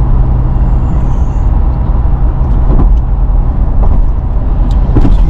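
Motor vehicle running with a steady low drone and road noise, with a few light knocks.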